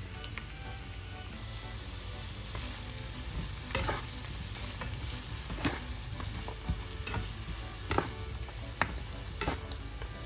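Tofu and carrots sizzling as they fry in a pan while being stirred, with a few sharp knocks of the utensil against the pan.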